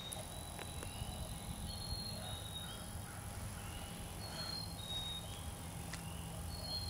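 Quiet spring woodland ambience: a songbird repeats a thin, high whistled note about every two seconds, with softer short notes between, over a low rumble.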